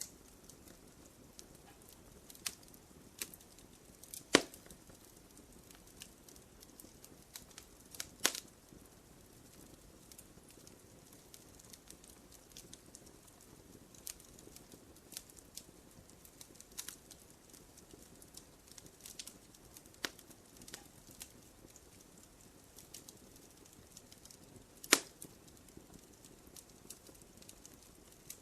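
Wood fire crackling: a soft steady hiss with scattered sharp pops, three louder snaps about 4, 8 and 25 seconds in.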